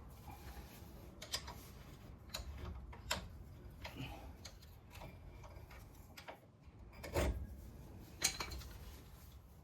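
Irregular clicks and knocks of hand work on a car's brake caliper and pads, about one a second, with two louder knocks near the end.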